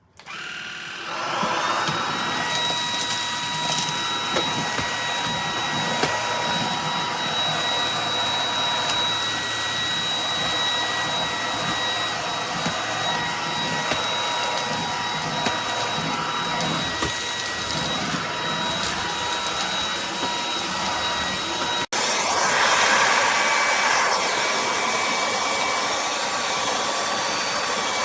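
Fabuletta cordless stick vacuum switched on: its motor spins up within about a second and runs with a steady high whine. Near the end there is a sudden cut to a louder run with a different whine pitch.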